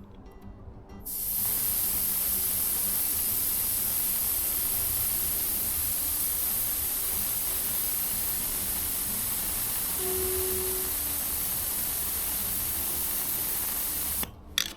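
Compressed air hissing steadily out of a car tyre's valve as the tyre is deflated so the wheel can be fitted; it starts suddenly about a second in and cuts off shortly before the end.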